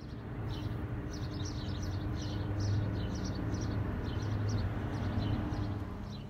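Idling car engine giving a steady low hum, with a bird chirping repeatedly outside in quick short notes.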